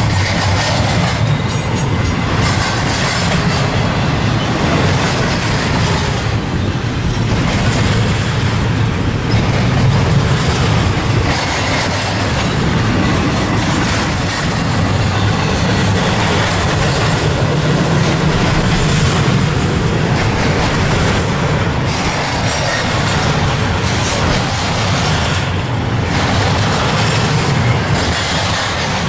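Double-stack intermodal container cars of a freight train rolling past close by: a steady rumble of steel wheels on rail.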